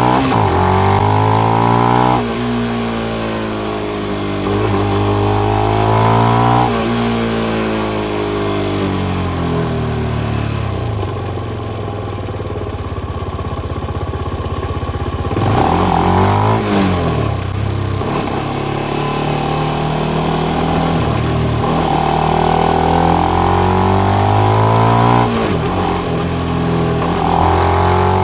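Benelli BN125's 125 cc single-cylinder engine through its original exhaust with the dB killer in, pulling up through the gears: the pitch rises, then drops sharply at each shift. About ten seconds in it settles to a low, steady run for a few seconds, then climbs through the gears again.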